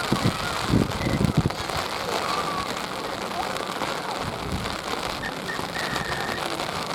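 A steady, even hiss like falling rain, with a few low bumps in the first second and a half.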